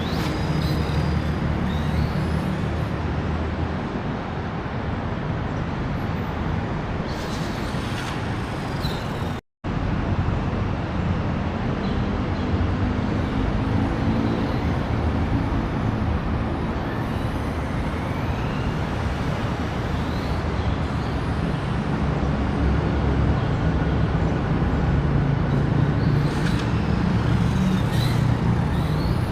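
Steady road-traffic noise with the low rumble of heavy vehicle engines and a few faint high whistles, cut off for an instant about nine seconds in.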